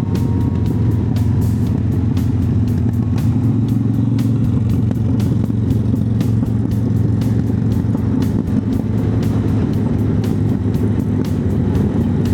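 Honda CB1100's air-cooled inline-four running at a steady cruise, with a constant low engine drone under wind and road noise and frequent short clicks.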